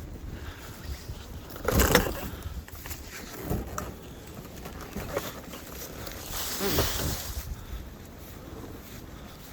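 Blizzard wind buffeting the microphone as a steady low rumble, with two stronger gusts rushing through, the louder about two seconds in and another about five seconds later.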